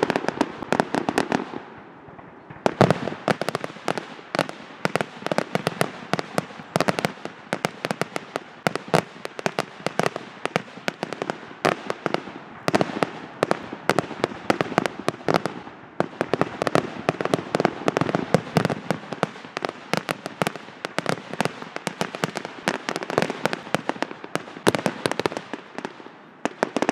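Fireworks display finale: a rapid barrage of aerial shell bursts, many bangs a second overlapping almost without a break. There are brief lulls about 2 s and 16 s in, and the barrage stops at the very end.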